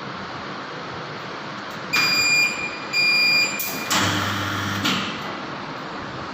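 Surge test rig firing a 2000-volt surge into an SPD online monitor: two short electronic beeps about a second apart, then a low buzz with hiss for under a second that ends in a click.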